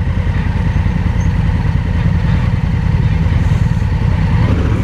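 Motorcycle engine running steadily, a constant low pulsing rumble.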